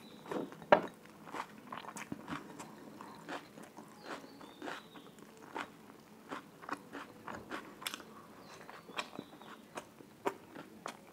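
Close-miked chewing and biting sounds of a person eating by hand: irregular soft crunches and wet mouth clicks.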